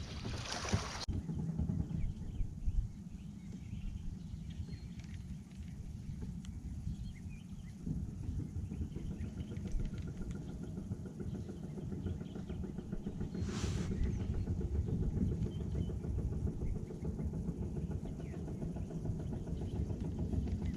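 Low steady drone of a motorboat's outboard engine on the lake, growing somewhat louder past the middle, with a brief hiss about two-thirds of the way through.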